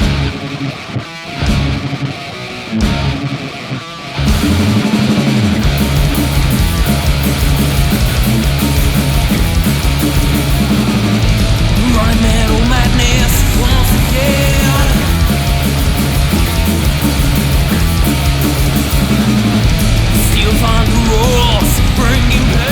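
Rock band's instrumental intro: a sparser, quieter opening for about four seconds, then electric guitars, bass and drums come in together at full volume and keep playing.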